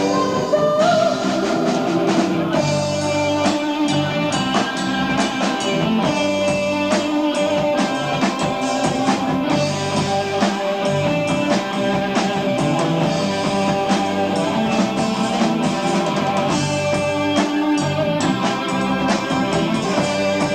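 A progressive rock band playing live, heard on an amateur tape recording: electric guitar, keyboards, bass and drum kit together, with held notes over a steady beat.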